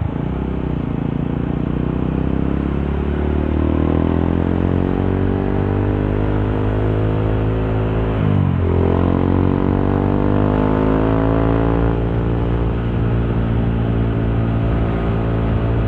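Honda CRF150L single-cylinder four-stroke engine through a Norifumi Torc aftermarket exhaust, accelerating with the pitch climbing, a quick drop in revs about eight seconds in as it shifts up a gear, then climbing again and settling into a steady cruise. Heard from inside the rider's helmet.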